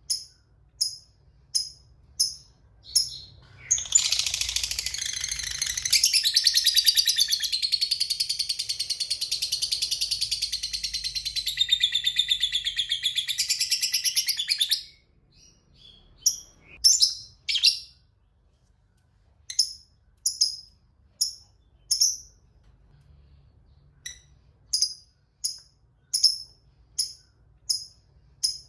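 Lovebird calling. Short sharp chirps come at even intervals, then a long rapid chattering trill (the 'ngekek') runs for about eleven seconds and stops abruptly, followed by scattered chirps.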